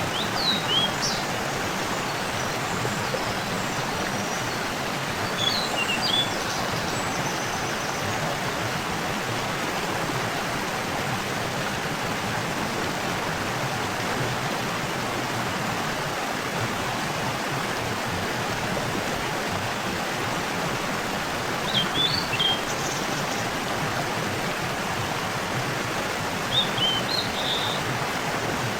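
Waterfall rushing, a steady even roar of falling water. Short high bird chirps come through it a few times: near the start, around a fifth of the way in, and twice in the last third.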